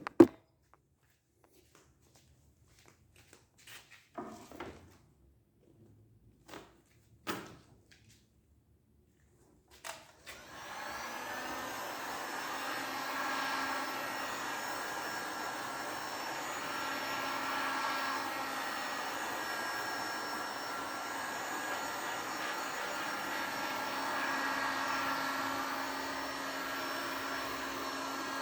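A few scattered light knocks, then about ten seconds in a small electric motor starts up and runs steadily with a constant hum and whine.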